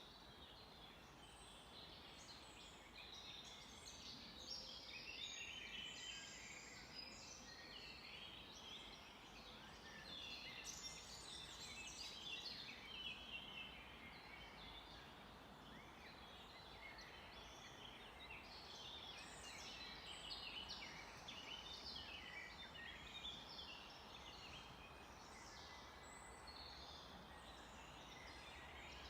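Faint chorus of many small songbirds, with short chirps and trills overlapping continuously.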